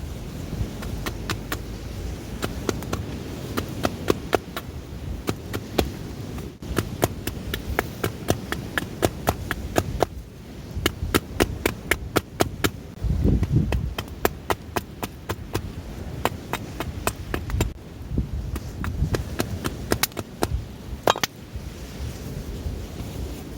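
A knife whittling wood: many sharp, irregular clicks and taps, several a second, coming in clusters. Under them is a steady low rumble of wind, which swells briefly about halfway through.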